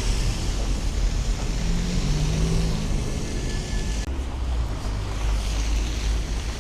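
Snowstorm wind gusting and buffeting the microphone: a steady low rumble under a rushing hiss, the hiss dropping off suddenly about four seconds in.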